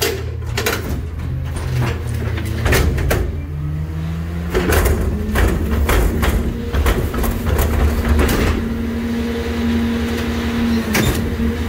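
A NewWay rear loader garbage truck running as it compacts a load. The engine hums steadily and speeds up a few seconds in, holding a higher steady pitch in the second half. Repeated clanks and knocks of metal and trash sound throughout.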